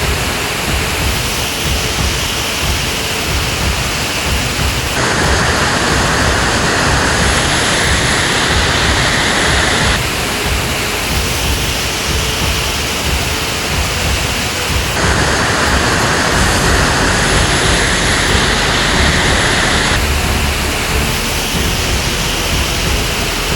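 Loud, steady rushing of fast floodwater, its tone shifting abruptly about every five seconds.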